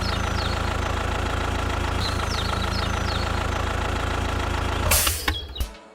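A tractor engine idling steadily, a low, even running sound that stops abruptly about five seconds in, followed by a brief hiss.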